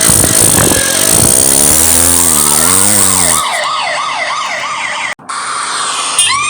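Cartoon police-car sound effects: a fast warbling siren sweeps up and down from about two seconds in, cuts out briefly just after five seconds, and a rising siren wail starts near the end.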